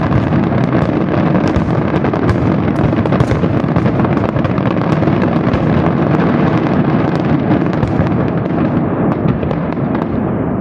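Fireworks display going off in a dense, continuous barrage, the bangs so close together they merge into one steady rumble with sharp crackle on top. The crackle thins out in the last second or two.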